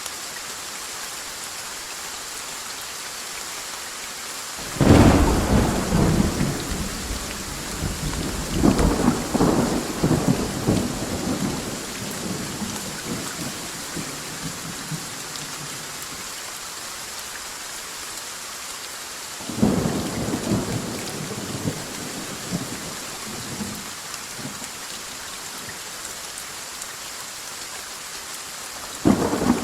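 Steady rain with thunder: a sudden loud crack about five seconds in that rolls on as rumbling for several seconds, another clap with rumbling near twenty seconds, and a third beginning at the very end.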